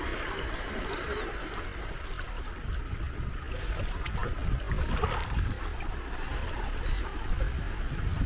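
Gentle sea waves washing and lapping at the shore, an even wash of water over a low rumble. A brief faint high chirp sounds about a second in.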